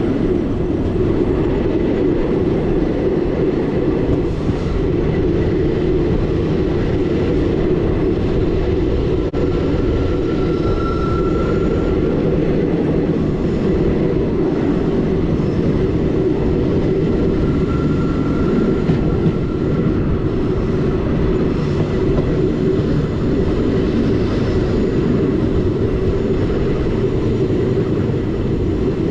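Passenger train running along the track, a steady rolling rumble of coach wheels on rail, with a faint high whine briefly twice.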